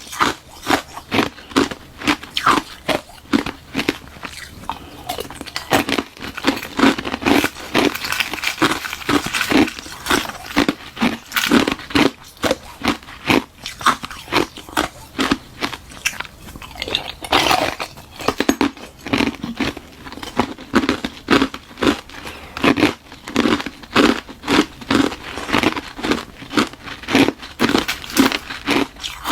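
Biting and chewing hard ice, a hollow balloon-frozen ice shell filled with frozen milk tea, in a continuous run of sharp crunches, about two to three a second.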